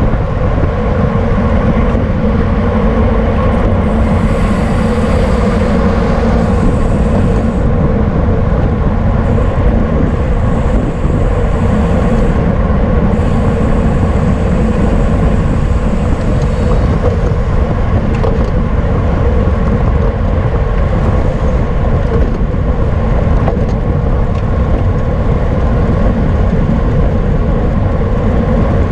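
Wind rushing over the microphone of a camera riding on a racing bicycle: a loud, steady rumble that stays even throughout.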